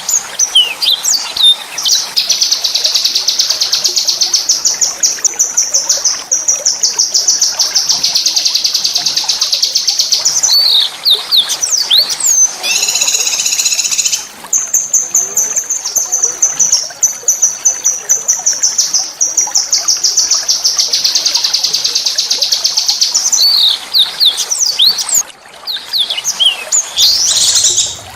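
A small songbird singing long, very fast, high rolling trills, broken twice by short sweeping chirps, with a harsher, denser phrase about halfway through.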